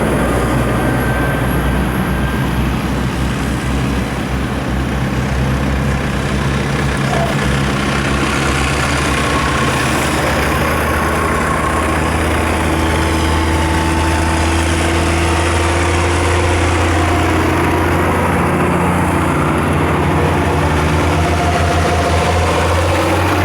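Diesel tractor engines running as a line of tractors drives past: a steady, loud, deep drone with engine tones that shift in pitch.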